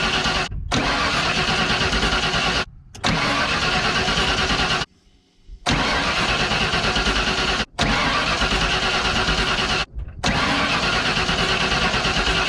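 Ford 302 V8 being cranked over by the starter to pulse the fuel injector connectors for a noid-light test, in about six short stretches that stop abruptly between them.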